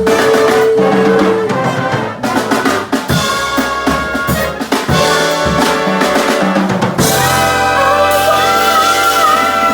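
Jazz big band playing an instrumental passage: a held note gives way to a drum fill on snare and kick, then the horns swell into a sustained full-band chord about seven seconds in, with a high line wavering and rising above it.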